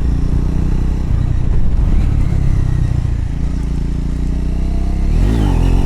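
Triumph Scrambler motorcycle engine running under way, with a quick rev that rises and falls about five seconds in: a throttle burst for a wheelie attempt.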